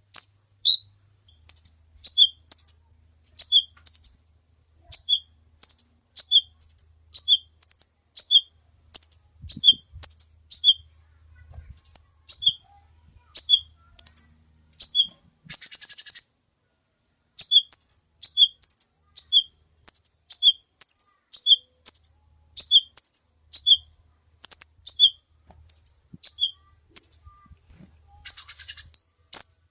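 Sunbird (the Indonesian 'kolibri') calling, as a recorded lure call: a steady series of sharp, high chirps, each a quick run of two or three notes stepping down in pitch, about once a second. Twice a rapid, buzzy trill breaks in, about halfway and near the end.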